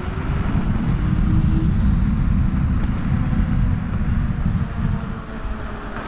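Riding noise on a Teewing Mars XTR electric scooter: steady, loud wind buffeting on the microphone and low road rumble from the tyres on the path.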